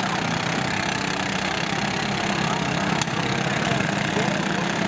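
Lawn tractor engines running steadily, with a single sharp click about three seconds in.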